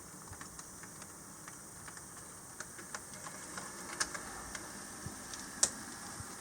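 HO-scale model locomotive running on track, its wheels making small irregular clicks and ticks over the rails, with a louder click about four seconds in and a sharper one near the end.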